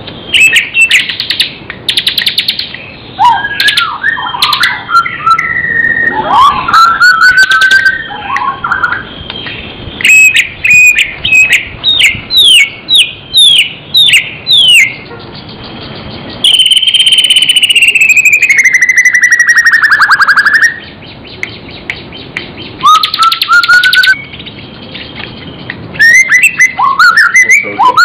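A shama (murai, genus Copsychus) singing loudly and continuously, its full song packed with varied phrases. The song runs from twittering notes into a quick series of down-slurred whistles, then one long falling whistle, then more phrases near the end.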